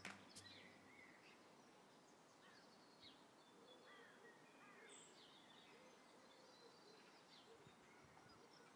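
Very faint outdoor ambience with a few scattered, faint small-bird chirps.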